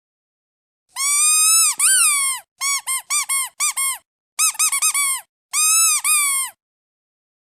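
Squeaky duck toy squeezed over and over, each squeeze giving a high, pitched squeak. Two longer squeaks come about a second in, then four short ones, a quick run of about five, and one long squeak near the end.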